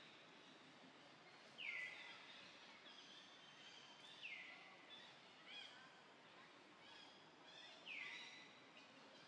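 Faint forest birdsong: one bird repeats a short, high call three times, about every three seconds, with softer chirps from other birds in between, over a quiet background hiss.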